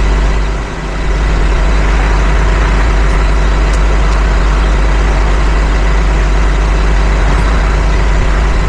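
The engine of a small excavator-type machine running steadily, with a brief dip in level about a second in.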